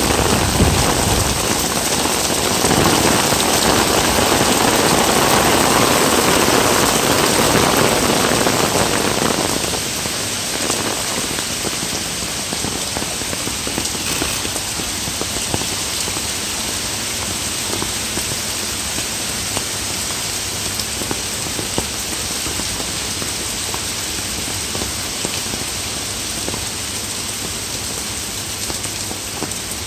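Heavy rain pouring down in a dense, steady hiss, easing slightly about nine seconds in.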